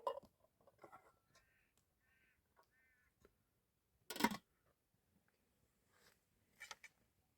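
Quiet, with three short high squeaks about two to three seconds in, a brief knock about four seconds in, and a few light clicks near the end.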